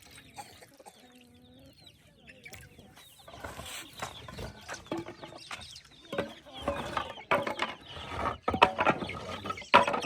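Chickens clucking, sparse at first, then more frequent and louder through the second half.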